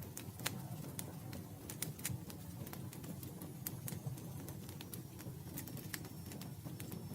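Campfire burning, with wood crackling in frequent, irregular sharp pops over a steady low rush of the flames.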